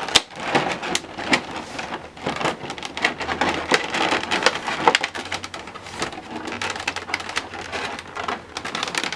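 Plastic packaging crinkling and crackling with many small sharp clicks as a boxed action figure is worked free of its tray.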